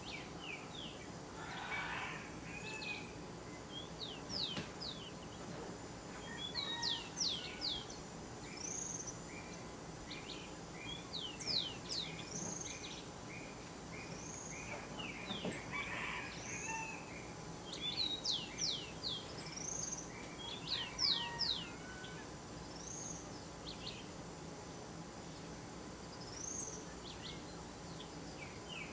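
Several wild birds calling and singing: quick falling whistled notes, short arched high notes and runs of repeated chips, over a steady background hiss.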